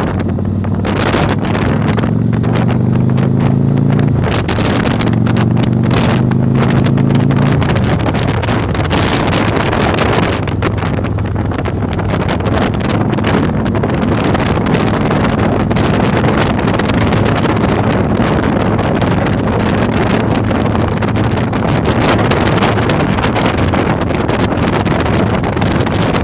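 Yamaha Virago 1100 air-cooled V-twin accelerating, its pitch rising through one gear, dropping at a shift about four seconds in and rising again, then holding a steady cruise. Heavy wind buffeting on the microphone covers most of the engine once it is up to speed.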